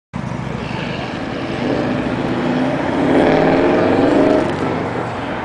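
A motor vehicle's engine, heard over steady outdoor traffic noise, rising in pitch and loudness about a second and a half in, loudest a little past the middle, then easing off as it passes by.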